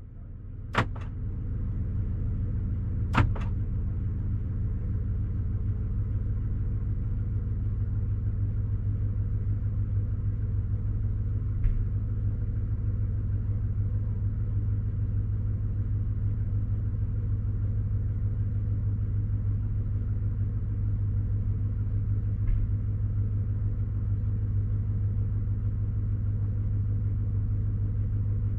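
Chevrolet Silverado's 5.3-litre V8 idling steadily after a cold start, a low even rumble. Two sharp knocks sound in the first few seconds.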